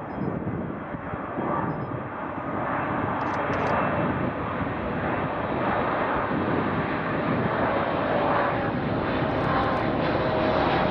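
Jet airliner engines, a rushing roar that builds over the first few seconds and then holds steady, with faint whining tones drifting slightly in pitch.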